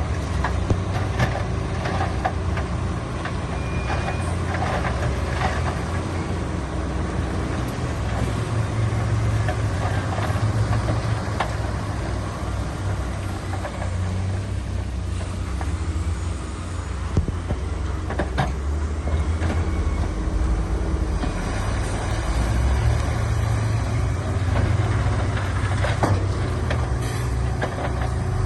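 Heavy diesel construction machinery running steadily, its low engine drone continuous, with scattered short knocks and clanks.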